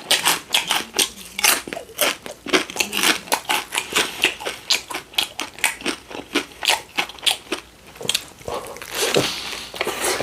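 Close-miked crunching of Miss Vickie's jalapeño kettle-cooked potato chips being bitten and chewed: a rapid run of crisp, sharp crunches, about three a second.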